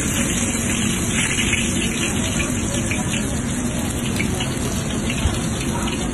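Steady sizzle of food frying in hot oil in a wok, with a metal spatula stirring it.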